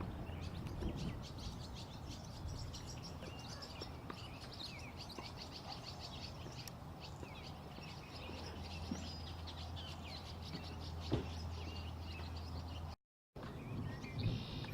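Small birds chirping outdoors, many quick high chirps repeating over a low steady rumble. The audio cuts out for a moment near the end.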